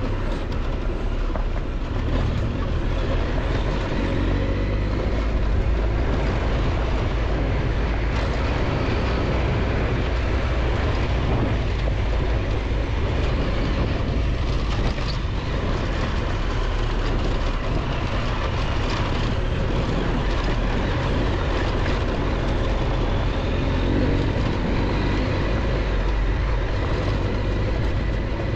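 Triumph Tiger 1200 XCX motorcycle's three-cylinder engine running steadily while riding on a dirt road, mixed with wind and road noise.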